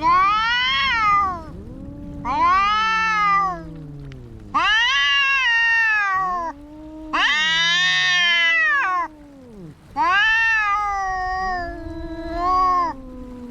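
Two domestic cats yowling at each other in a fight standoff. One cat gives a series of long, loud, rising-and-falling yowls, about six in all, each one to two seconds long. Under them a second cat keeps up a lower, wavering yowl.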